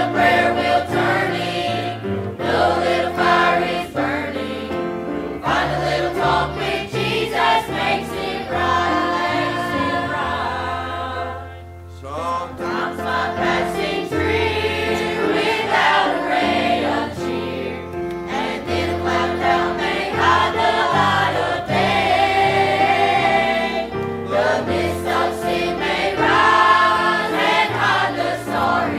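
Congregational singing of a gospel hymn, a group of voices with instrumental accompaniment and a bass line, with a short lull between phrases about twelve seconds in.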